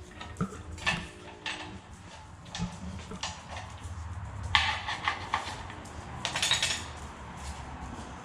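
Pieces of metal clinking and rattling against each other in short clusters: a few single clinks in the first couple of seconds, then denser rattles about halfway through and again near two-thirds in.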